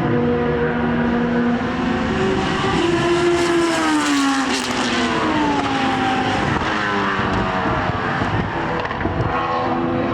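Racing car engines at speed on a circuit. The engine notes rise and fall through gear changes as the cars pass, with more than one engine note overlapping near the middle.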